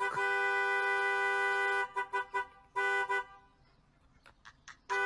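A two-note horn honking: one long blast, three quick taps, a shorter blast, then another long blast starting near the end.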